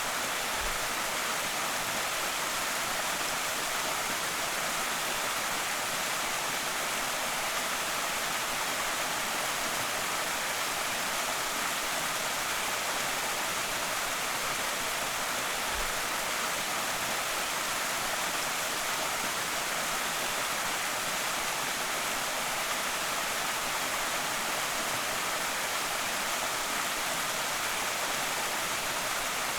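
Creek waterfall: a steady, even rush of falling water, mostly hiss with little low rumble.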